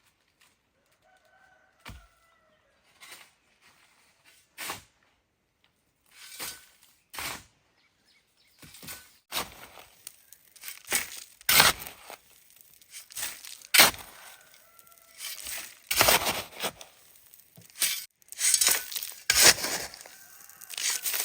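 Repeated short gritty scraping and crunching strokes, sparse at first, then louder and closer together from about eight seconds in. A chicken calls a few times.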